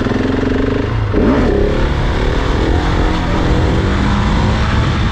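Supermoto motorcycle engine running while riding, its pitch swinging up about a second in as the throttle is worked, with a rush of wind noise.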